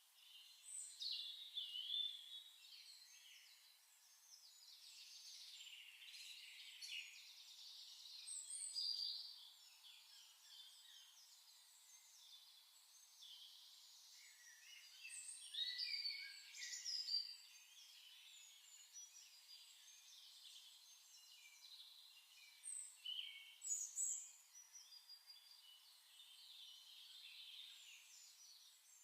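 Wild birds calling and chirping in a wetland: many short, varied high calls and trills over a faint steady hiss. The louder bursts come about 1 to 2 seconds in, around 9 seconds, between 15 and 17 seconds, and around 23 to 24 seconds.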